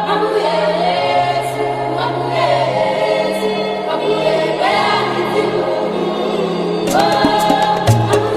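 Music with a choir singing in sustained chords over a bass line, in a gospel style. Quick percussion ticks come in about seven seconds in.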